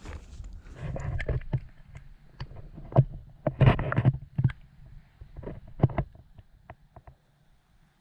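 Knocks and clicks of fishing gear being handled in a kayak. They are busiest in the first half and then thin to scattered light ticks.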